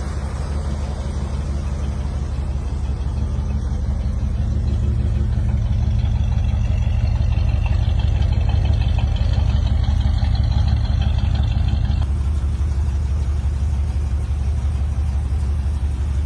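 A car engine idling with a steady low rumble. It grows a little louder in the middle, and the sound changes abruptly about twelve seconds in, as at a cut between clips.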